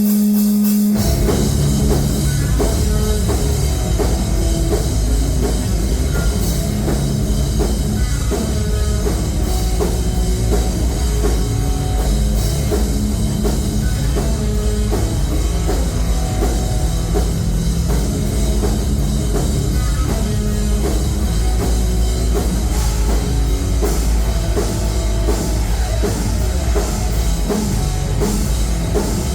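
Live heavy rock band playing loud, with drum kit, electric guitars and bass. A held note gives way to the full band coming in about a second in.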